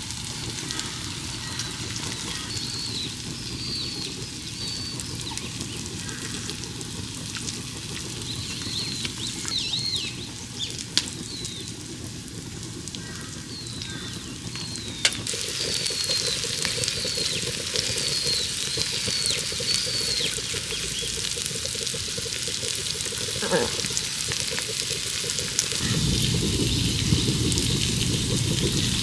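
Food sizzling on a cast-iron cauldron-lid griddle, a steady frying hiss with a few sharp clicks. The sizzle grows louder about halfway through and again near the end.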